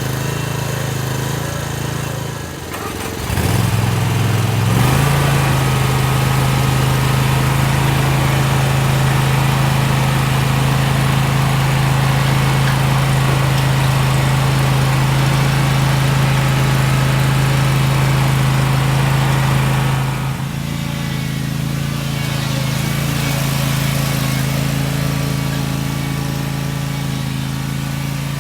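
Chinese mini excavator's engine running steadily while it works. About three seconds in the note dips, then it runs louder until about twenty seconds in, when it eases back.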